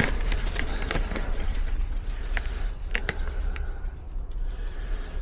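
Handling noises: rustling and a few sharp light clicks, over a steady low rumble.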